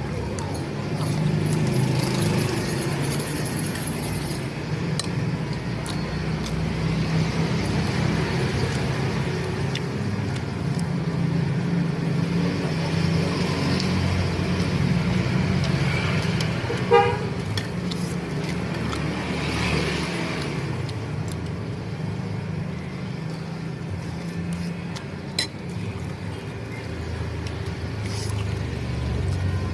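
Road traffic noise, a steady low rumble of passing vehicles, with a brief vehicle horn toot a little past halfway.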